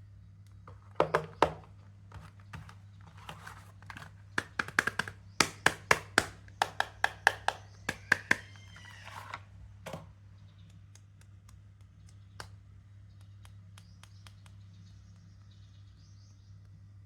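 Soap packaging being handled and unwrapped: a dense run of sharp crinkles and taps for the first ten seconds, then a few scattered clicks, over a steady low hum.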